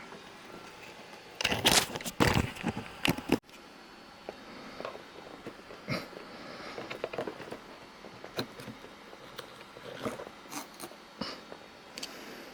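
Handling noise from a loudspeaker being taken apart: a loud flurry of knocks and rustles over about two seconds that cuts off suddenly, then scattered light clicks and taps.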